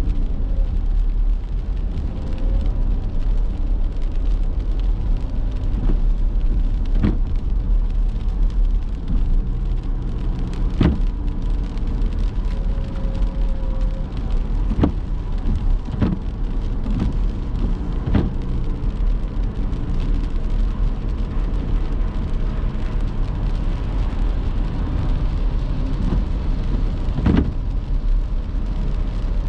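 Car driving through rain: a steady low road and engine rumble under a hiss of rain and wet tyres, with occasional sharp taps.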